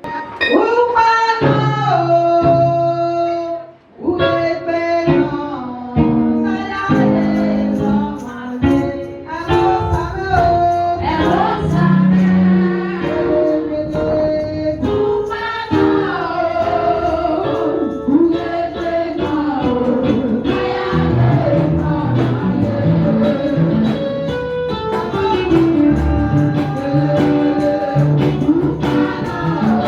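Gospel music: sung melody over instrumental backing, breaking off briefly about four seconds in.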